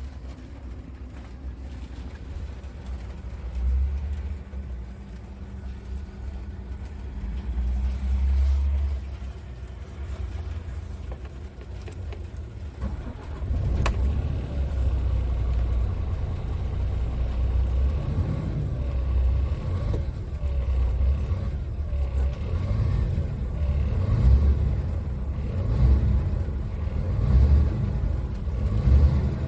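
Scania R tractor unit's diesel engine running, a low rumble that rises and falls with engine speed. A single sharp click comes about halfway through, after which the engine is louder.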